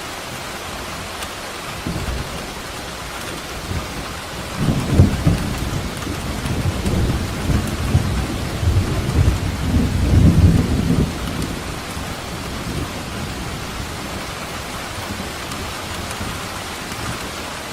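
Steady heavy rain hissing, with a long roll of thunder that swells about four seconds in, crackles and rumbles deep for several seconds, then dies away by about twelve seconds.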